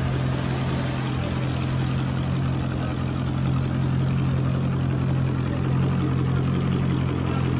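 Steady low vehicle engine drone with an even rushing noise over it, holding constant throughout.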